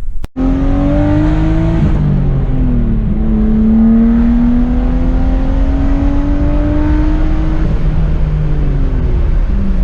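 Turbocharged car engine pulling under load. Its pitch rises for about two seconds, falls back, then climbs steadily for about five seconds before dropping near the end.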